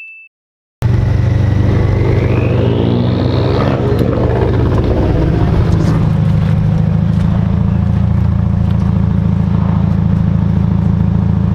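A vehicle engine running steadily at idle, starting suddenly about a second in, with a whine that rises in pitch over about two seconds early on.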